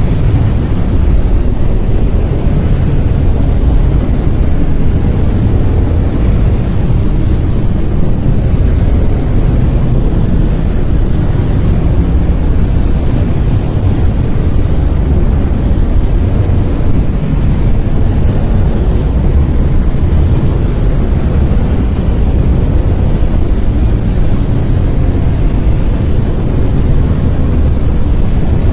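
Synthetic brown noise: a loud, steady, deep rumbling hiss, strongest in the bass and fading toward the treble, with no changes.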